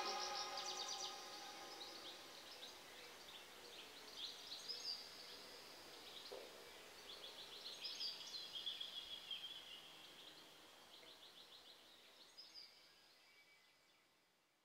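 Faint birdsong of chirps and rapid trills, fading out to silence near the end. The last of a synth music track dies away in the first second.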